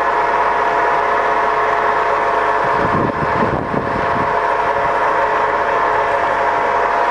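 Scott 6250L centre lathe running with its lead screw engaged, the headstock and feed gearing giving a steady geared whine and hum as the carriage feeds along the bed. A brief low rumble comes in about three seconds in.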